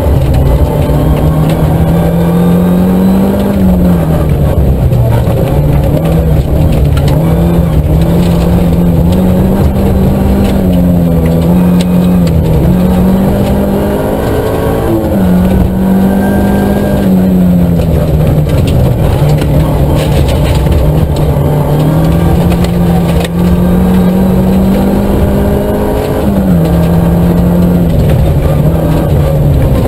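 Nissan Micra K11 rally car's engine, heard from inside the cabin, driven hard on a stage. The revs climb and drop over and over, with sudden falls in pitch at gear changes and lifts off the throttle.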